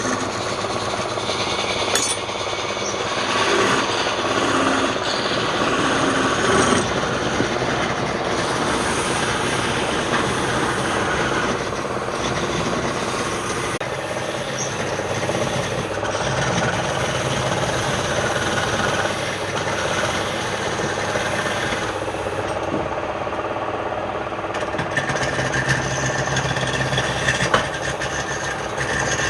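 Wood lathe running, with a steady rubbing, rasping sound of a tool or abrasive working against the spinning wood.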